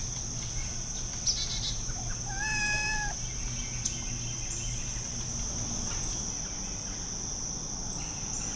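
A chicken gives one drawn-out, level-pitched call about two and a half seconds in, over the steady high chirring of insects.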